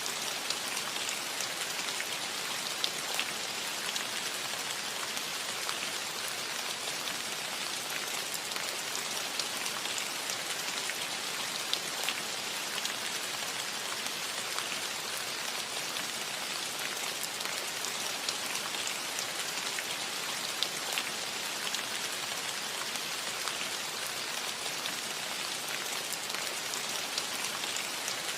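Steady rain falling on a metal roof: an even hiss peppered with many small, sharp drop ticks.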